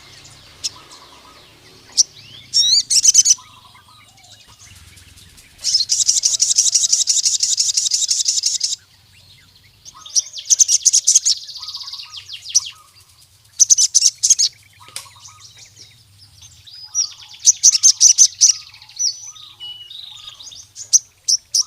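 Male crimson sunbird (sogon) singing a challenge to a rival male: fast, high, rattling trills, one held for about three seconds, the others in short bursts, with soft chirps between them.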